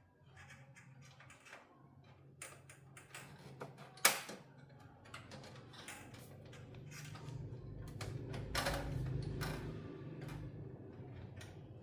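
A string of small clicks and taps from hard parts being handled during a TV repair, with one sharper knock about four seconds in. A low steady hum runs beneath and grows louder in the second half.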